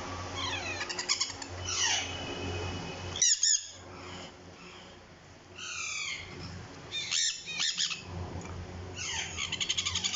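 Sun conure chicks calling: repeated falling, squeaky chirps, with louder squawks about three and a half and seven seconds in.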